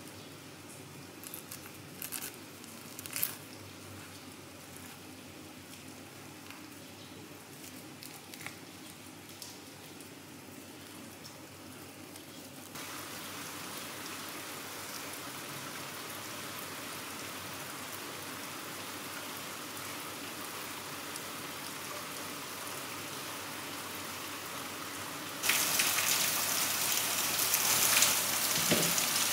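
A few soft clicks and scrapes of a silicone spatula against a glass baking dish as it cuts into a pudding. Then a steady hiss begins at about 13 s and swells into louder rainfall at about 25 s.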